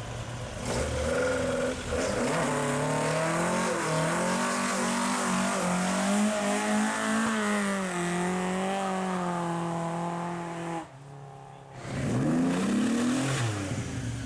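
Classic Ford car's engine revving hard, held at high revs for several seconds, then a sudden drop about eleven seconds in, like a lift-off or gear change, before it revs up and falls back once more near the end.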